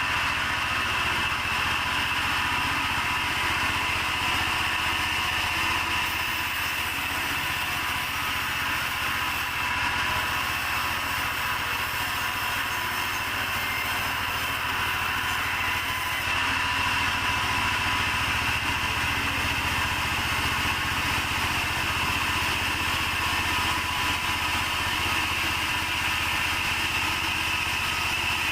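Sawmill saw running steadily while sawing a mahogany log into beams: an even, unbroken machine whine over a low hum.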